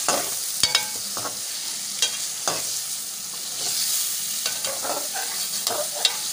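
Chicken and tomato masala sizzling in a metal pot while a slotted spatula stirs it, with irregular scrapes and clinks of the spatula against the pot over a steady frying sizzle. This is the bhuna stage, frying the masala down until its water has cooked off.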